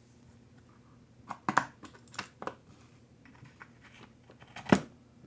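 Irregular clicks and knocks of small parts and tools being handled on a workbench, with a cluster about a second and a half in and one sharper knock near the end.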